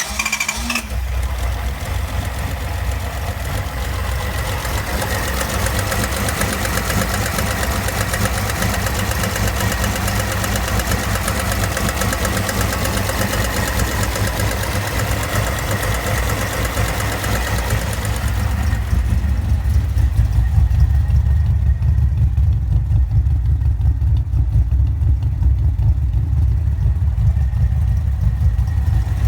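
Nissan L30 3.0-litre straight-six on Solex sidedraft carburettors idling steadily. About two-thirds of the way through, the higher hissing part of the sound drops away and a deeper, louder low rumble takes over.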